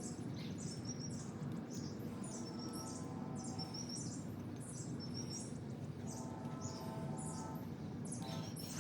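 Wild birds chirping, short high calls repeated every second or so over a steady low background rumble.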